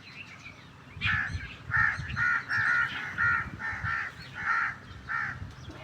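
A bird giving a quick run of about nine short, harsh, caw-like calls, evenly spaced about three a second, starting about a second in and stopping shortly before the end.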